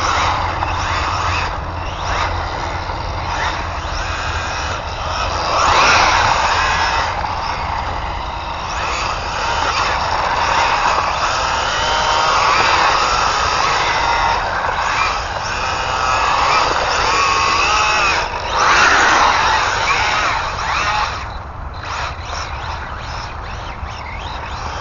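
Brushless electric motor of an ARRMA Infraction 3S RC car whining as it is driven, its pitch rising and falling with repeated acceleration and braking, over the noise of its tyres on the ground. It swells loudest about six seconds in and again around eighteen to twenty seconds in.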